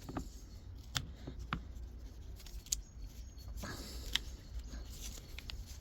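Light metallic clicks and ticks, about five, scattered and uneven, from the shift sleeve of a disassembled Toyota robotized five-speed gearbox being worked by hand over the synchronizer, its teeth seeking the gear's teeth.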